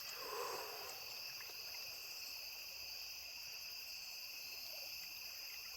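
Steady chorus of late-summer night insects, crickets among them, in several constant high-pitched bands.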